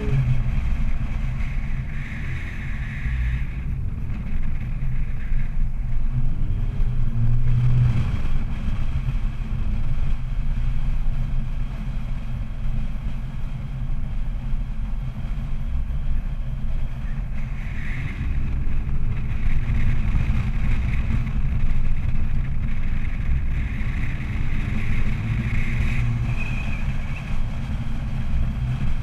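4x4 engine running under load while driving over sand dunes, with its note rising and falling a few times. A heavy low rumble of wind buffeting the microphone runs through it.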